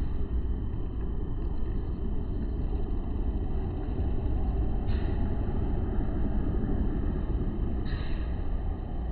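Steady low rumbling outdoor background noise, with two brief, faint higher sounds about five and eight seconds in.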